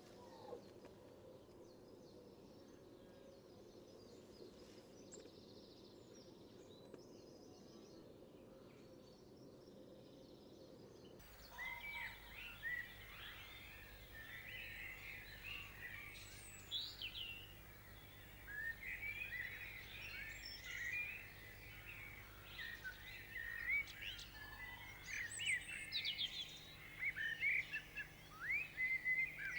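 Faint, steady background noise, then, about eleven seconds in, a sudden switch to lively chirping and song from several small birds.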